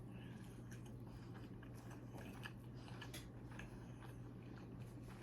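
A person chewing food quietly, with faint, irregular mouth clicks, over a low steady hum.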